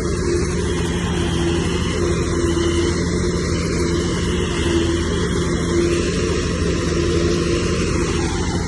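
Heavy diesel engine of earthmoving machinery running steadily under load, with a low tone that swells and fades about once a second.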